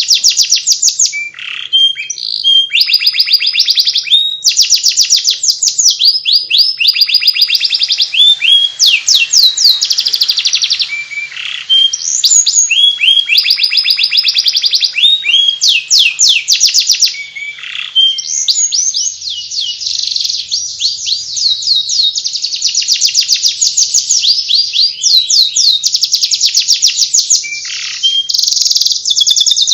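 Domestic canary singing in the rapid, continuous twittering 'ngeriwik' style: long runs of fast, repeated high chirps, with a few brief breaks between phrases.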